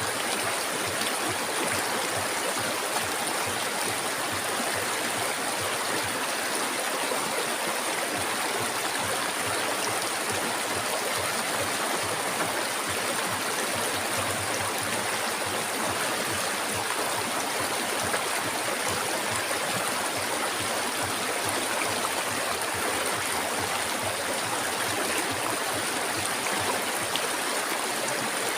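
River water flowing steadily, an even, unbroken rushing sound.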